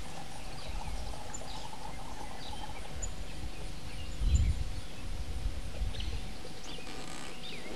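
Outdoor ambience with faint birds chirping, over a low rumble that swells briefly about four seconds in.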